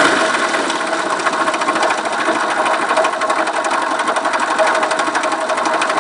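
Viper Active motorcycle engine idling with a rapid, even ticking clatter: the clicking noise the owner cannot place.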